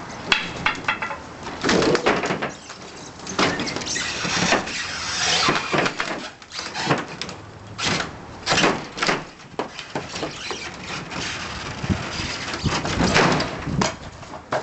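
Wooden covered-porch roof being torn down: wood creaking, cracking and scraping, broken by repeated sharp knocks and bangs at irregular intervals.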